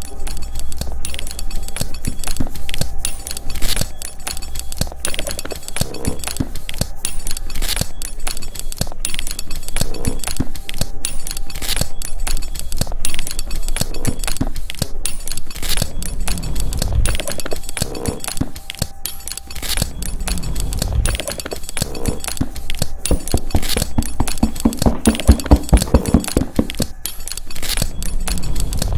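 Bag-making sounds (metal hardware clinking and jangling, tapping and clicking) cut together into a rhythmic percussive piece over a low steady hum, with heavier low thumps coming in several times in the second half.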